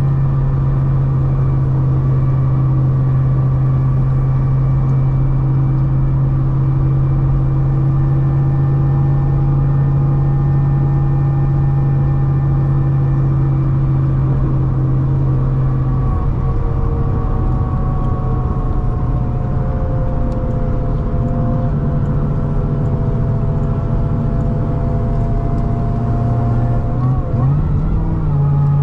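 Supercharged C6 Corvette ZR1 V8 cruising at a steady engine speed. About halfway through the note eases off and sags slowly in pitch as the throttle lifts, then wavers briefly near the end and settles back to the earlier steady drone.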